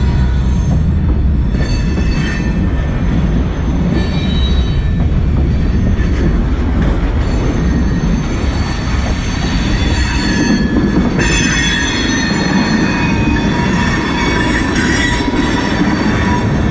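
Union Pacific freight train's covered hoppers and tank cars rolling past close by: a steady, loud rumble of steel wheels on rail, with high squealing tones from the wheels that grow brighter in the second half.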